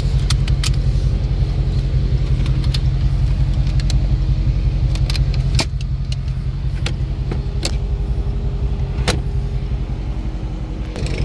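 Dodge Daytona 392's 6.4-litre HEMI V8 idling, a steady low drone that drops a little in level about halfway through. A few sharp clicks and taps sound over it.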